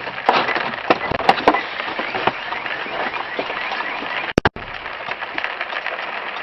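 A few sharp cracks and knocks over a steady noisy background, then two sharp clicks with a brief dropout about four and a half seconds in.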